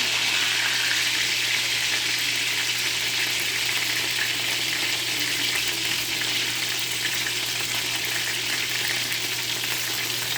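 Breaded chicken pieces deep-frying in hot oil: a steady, continuous sizzle and crackle, with a constant low hum underneath.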